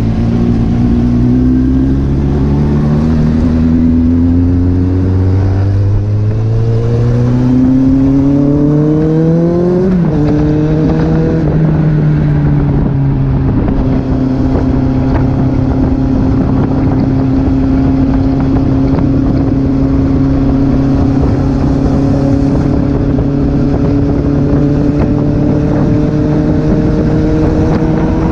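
Kawasaki Z800's inline-four engine accelerating through the gears. Its pitch climbs and drops back at each upshift, several times in the first dozen seconds, then holds a steady, slowly rising pitch while cruising.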